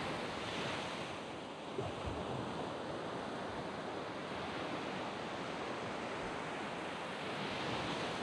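Waves washing onto a sand beach: a continuous surf hiss that swells with the breaking waves about half a second in and again near the end. There is a brief low thump about two seconds in.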